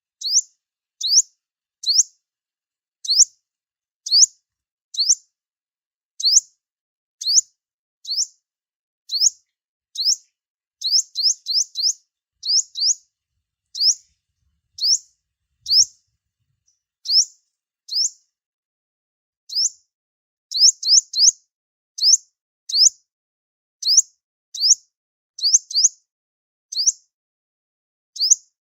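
Sunbird calling: a steady series of short, thin, high chirps, about one or two a second, now and then in quick runs of two or three.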